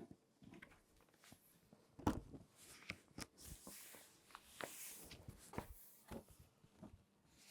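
Crinkly magazine pages being folded by hand: soft, scattered crinkles and crackles, with one sharper crack about two seconds in.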